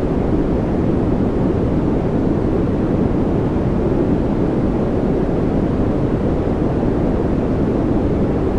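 Steady white-noise track for focus and relaxation: an even, unchanging rush, deep-toned with little hiss.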